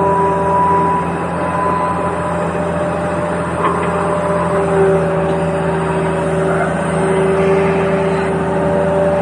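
Radio-controlled toy vehicle running: steady electric motor and gear whine over a constant low hum, with the whine's pitch drifting slightly.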